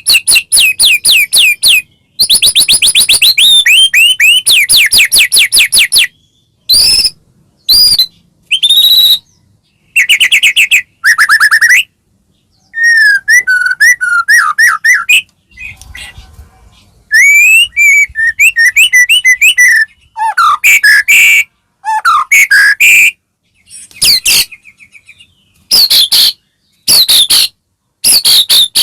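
White-rumped shama (murai batu) singing loud, varied phrases: fast rattling runs of repeated notes, whistled glides and trills. The phrases come in bursts a second or two long, broken by sudden short silences.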